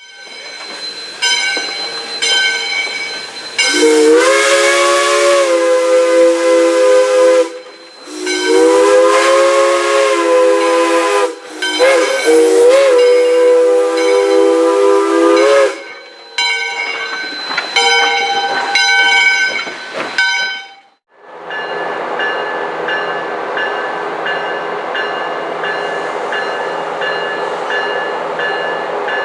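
Steam locomotive 425's chime whistle blowing three long blasts, each sliding up in pitch as it opens, with steam hiss. After a sudden break, a train runs steadily.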